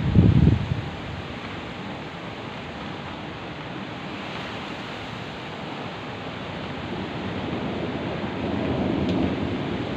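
Steady heavy rain, with a short crack of thunder right at the start and a low rumble of thunder swelling and rolling near the end.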